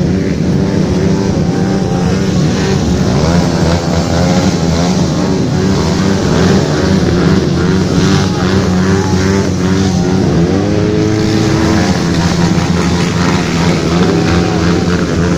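Several motorcycle engines running together with overlapping engine notes, one revving up and down about ten seconds in; from a Honda CB club gathering known for tuned engines.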